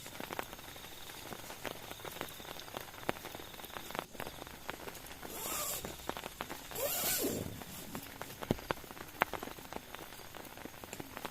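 Rain dripping and tapping irregularly on a tent or tarp over a light hiss, with two brief rustling swishes about halfway through.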